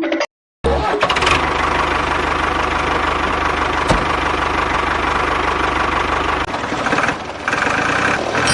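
Tractor engine starting and running steadily with a low, even pulsing. The low end drops away about two-thirds of the way through.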